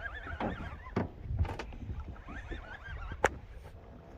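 Fishing reel's drag whining in a wavering tone as a hooked tope takes line, twice, with a few knocks and a sharp click on the boat.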